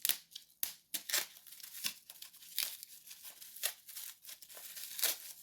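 Packaging being handled and unwrapped to get a lock out: irregular crinkling and tearing crackles, one after another.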